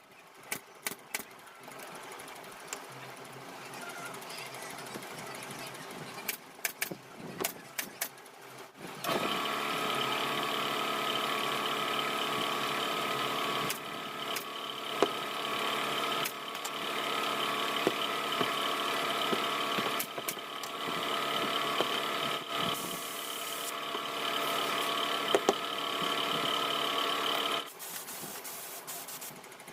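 Scattered sharp clicks and knocks, then a small motor starts about nine seconds in, runs with a steady hum, and stops abruptly near the end.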